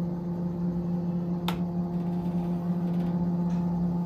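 CNC router running with a steady, pitched motor hum, with one sharp click about a second and a half in.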